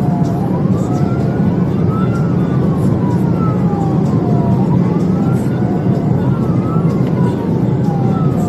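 Police car siren wailing in slow rising and falling sweeps, over a steady loud low rumble of the pursuing car's engine and road noise at speed.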